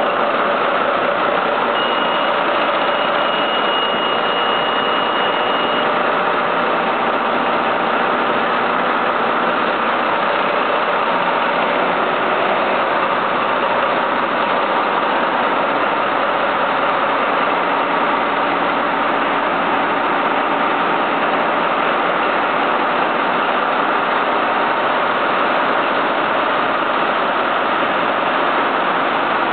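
Caterpillar marine diesel engine running steadily, an even, unchanging engine noise with a faint high whine for a few seconds about two seconds in.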